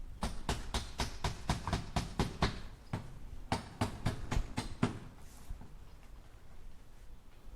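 Hammer tapping on a nail in quick runs of about five blows a second: one run, a short pause, then a second run that ends about five seconds in.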